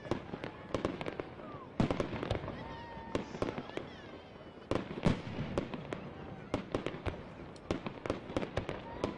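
Aerial fireworks bursting: a run of booms and pops with crackle between them, the two biggest booms about two seconds in and about five seconds in.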